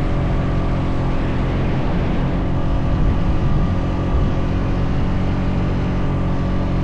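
Honda Foreman 520 ATV's single-cylinder engine running steadily under load while towing another ATV.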